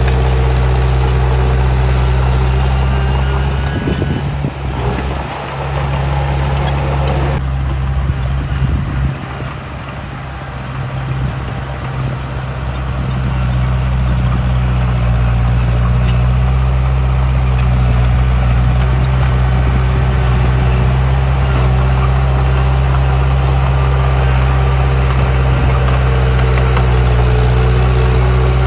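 Heavy diesel earthmoving machinery running with a steady, even engine drone. It dips in level for several seconds partway through, then settles back to steady running.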